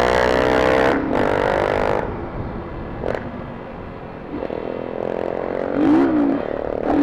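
Motorcycle engine revving with its pitch climbing for about a second, then dropping away, before running on quieter and steadier, with a brief wavering rise and fall in pitch near the end. The rider says the clutch is slipping, so the revs climb without the bike pulling.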